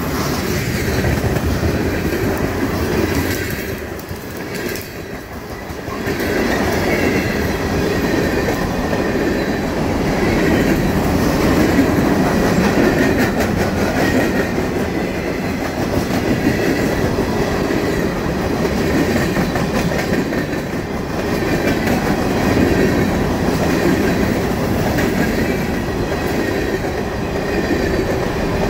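Freight train's covered hopper cars rolling past close by: a steady rumble of steel wheels with clickety-clack over the rail joints, briefly quieter about four seconds in.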